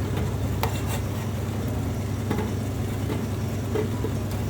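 Steady low kitchen hum with a few light clicks and taps as small rice-dough balls are put into a metal idli steamer plate.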